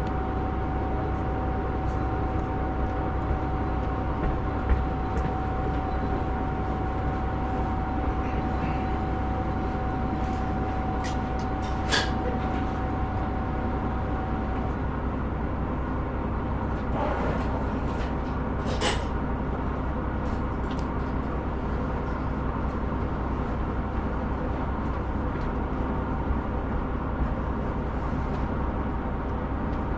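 Inside the cabin of a KiHa 125 diesel railcar: a steady engine hum and low rumble, with a constant tone that stops about halfway through and a couple of sharp clicks.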